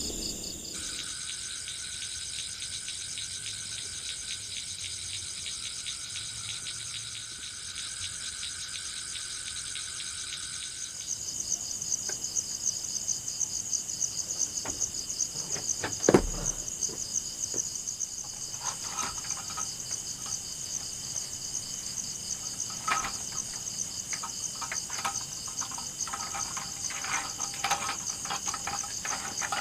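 Forest insects, crickets among them, trilling in a steady high-pitched chorus that changes character about a second in and again around eleven seconds in. A single sharp knock sounds near the middle, and scattered clicks and taps join in over the last ten seconds.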